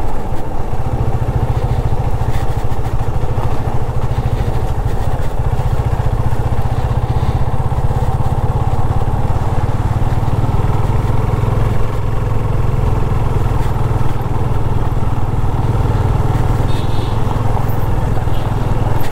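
Yamaha FZ25 motorcycle's single-cylinder engine running steadily while being ridden at low speed along a rough dirt track.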